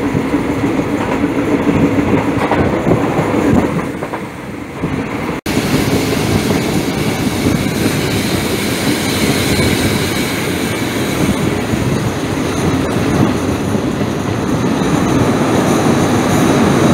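Passenger train running, heard from an open carriage window: a steady rumble of wheels on the rails with clattering over the rail joints. The sound drops out for an instant about five seconds in and picks up again.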